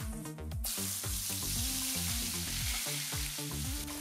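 Hot oil in a kadai sizzling as a wet ground masala paste of onion, tomato, ginger and garlic is poured in. The sizzle starts suddenly about half a second in and then runs steadily, with background music underneath.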